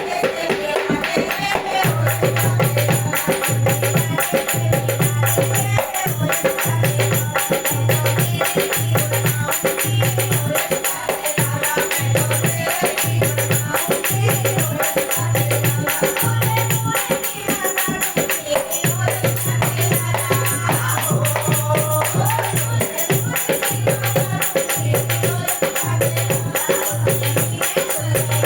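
Hindi devotional bhajan to a film tune: dholak drumming in a steady rhythm under jingling hand percussion, with voices singing the melody.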